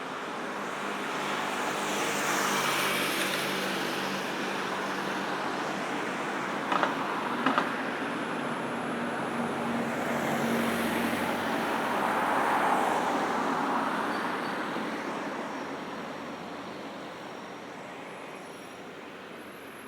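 Busy road traffic: cars and other vehicles passing one after another, their engine and tyre noise swelling and fading. Two short sharp clicks come about seven seconds in.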